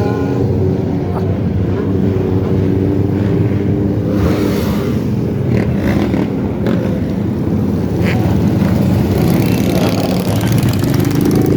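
Motorcycle engines running steadily, a continuous engine drone.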